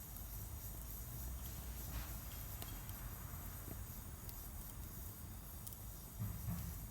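Wood fire burning in a Solo Stove Campfire stove with secondary combustion: a low steady rumble with a few faint, scattered crackles and pops, and a brief louder flare-up near the end.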